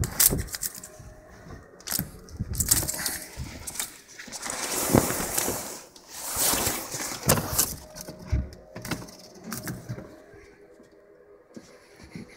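Blizzard wind gusting, rising and falling in noisy swells every second or two, with a few short knocks among them.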